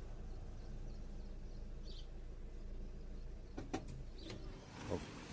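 Maruti Swift Dzire's petrol/CNG engine idling steadily, its number 2 injector freshly replaced. A few sharp clicks come about three and a half seconds in and a short knock near the end, with faint bird chirps.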